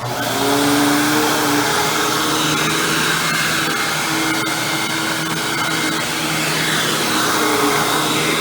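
Hoover WindTunnel Supreme bagged upright vacuum cleaner switching on at the very start, then running at full power with a steady loud rush and whine.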